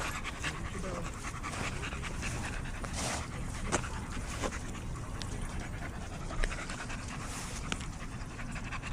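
Dog panting steadily, with a few sharp clicks around the middle.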